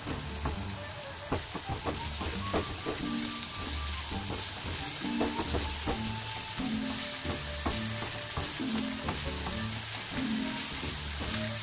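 Diced onion sizzling in oil in a nonstick wok, stirred and scraped around with a silicone spatula, with frequent short scraping taps over the steady sizzle.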